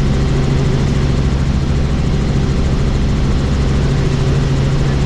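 Helicopter in flight heard from inside the cabin: a steady low drone of engine and rotor with a rushing wind noise, the doors off.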